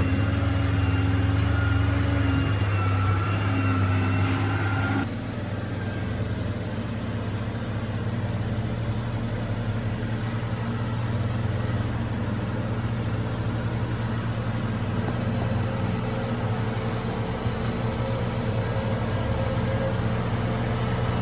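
Diesel engine of heavy earthmoving machinery running steadily with a low hum. About five seconds in the sound drops abruptly in level and changes tone, then carries on as a steadier drone.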